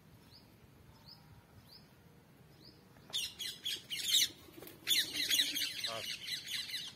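Birds calling: one bird repeats a short high chirp about every 0.7 seconds, then about three seconds in several birds break into loud, rapid overlapping calls.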